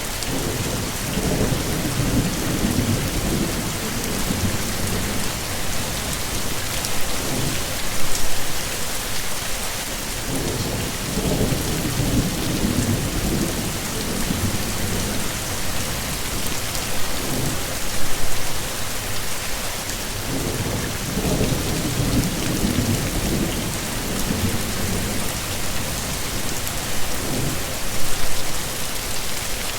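Heavy rain with a steady hiss, with low thunder rumbling in and out about every ten seconds.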